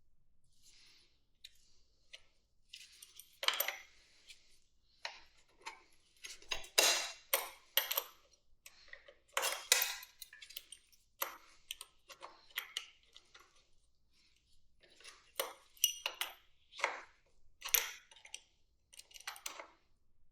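Two adjustable wrenches clinking and scraping against metal fittings in irregular, sharp taps and clanks, some loud, with short pauses between.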